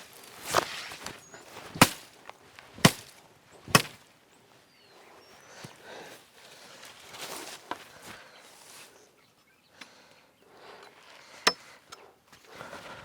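Sharp knocks, four of them about a second apart in the first few seconds and one more near the end, with rustling in between.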